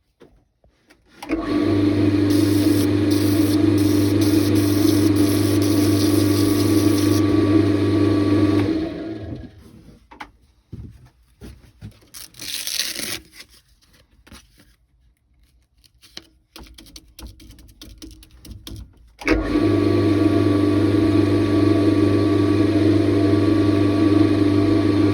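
Wood lathe motor running steadily. It starts about a second in, stops after about seven seconds, and starts again for a second run later on. Faint clicks and handling noises fall in the pause between the runs.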